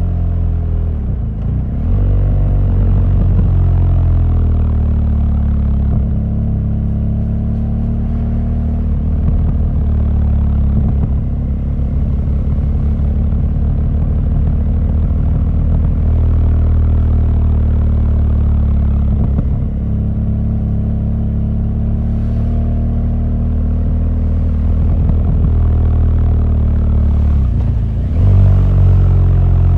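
BMW R1200GS boxer-twin motorcycle engine running under way, its pitch falling and rising with the throttle and gear changes, with a brief drop about a second in and a rev rise near the end.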